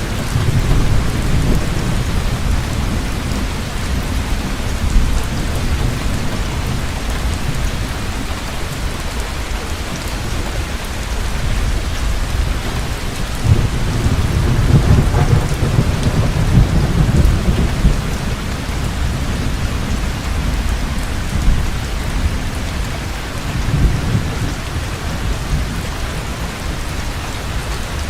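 Heavy rain falling steadily, with rolls of thunder rumbling under it; the longest and loudest roll swells about halfway through and fades, and a smaller one comes near the end.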